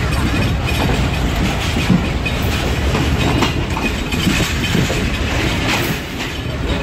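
Passenger train running, heard from an open coach window: steady rumble with wheels clattering over rail joints and pointwork as the train crosses from the loop line onto the main line.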